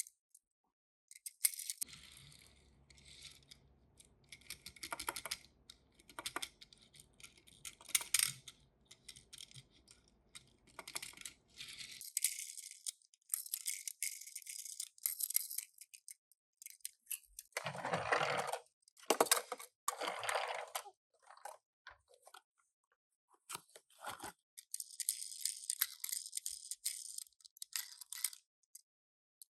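Small cardboard boxes and plastic packaging of Tomica die-cast minicars being opened and handled: short, irregular bursts of rustling and crinkling with small rattles and clicks. Two or three louder tearing or ripping sounds come a little past halfway through.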